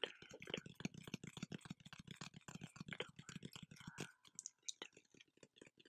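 Fast, irregular ASMR tapping and clicking close to the microphone, dense at first and thinning out after about four seconds.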